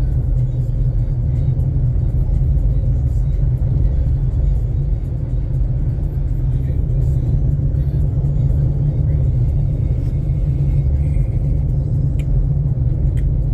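Steady low road rumble heard inside a moving car's cabin.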